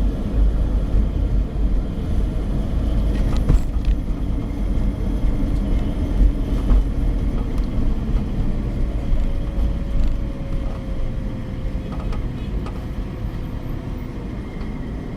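Suzuki APV on the move: a steady low road and drivetrain rumble, with a faint hum that drifts slightly lower in pitch past the middle. It is the humming the owner hears above 50 kph and believes comes from the automatic transmission.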